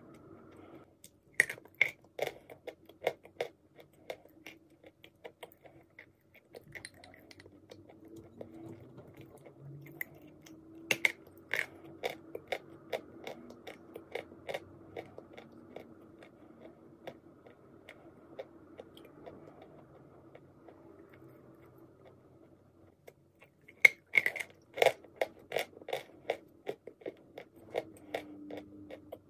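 Close-up chewing of dry chunks of white clay: crisp, brittle crunches a few a second, coming in three bouts (about a second and a half in, around eleven seconds, and near the end), with softer chewing between.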